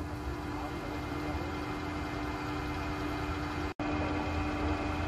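Steady machine hum, likely a machine tool's electric motor running, with one steady mid-pitched tone over a low rumble. The sound cuts out for an instant near four seconds in.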